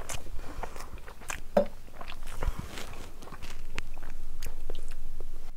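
Close-miked chewing and wet mouth sounds of someone eating rice and curry by hand, a series of short smacks and clicks. Near the end, a few sharp clinks as a metal spoon scoops eggs from an aluminium pot.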